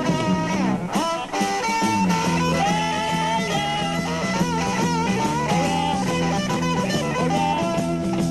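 Live psychedelic blues-rock band playing an instrumental passage, an electric guitar lead with bent, wavering notes over the band, with a deep bend about a second in.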